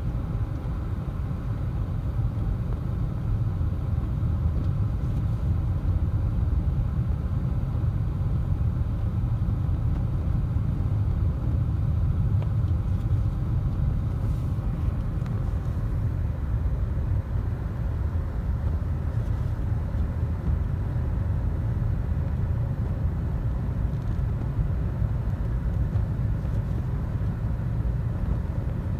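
Steady low rumble of road and tyre noise inside the cabin of a Ford Taurus SHO on Michelin CrossClimate 2 all-season tyres, driving on a snowy highway.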